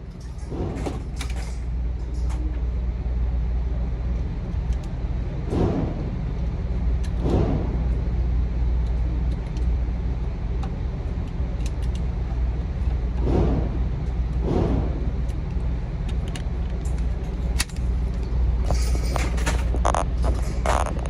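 Steady low hum of an indoor shooting range, with a handful of muffled thuds scattered through and a sharp crack near the end.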